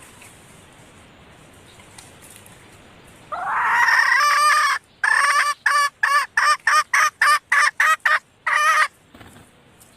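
Female red junglefowl calling: one drawn-out call about three seconds in, then a rapid run of about a dozen short, sharp notes, roughly three a second. This is the hen call used to draw in males.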